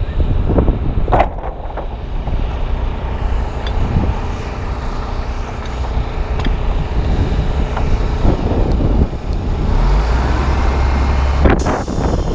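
Strong wind buffeting the microphone of a GoPro Hero 2 camera: a loud, uneven low rumble that rises and falls with the gusts, heaviest for about a second and a half near the end.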